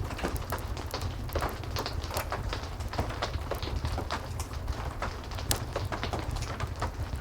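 Heavy rain falling steadily over a low rumble, with a wood fire crackling: frequent short sharp pops and ticks scattered irregularly throughout.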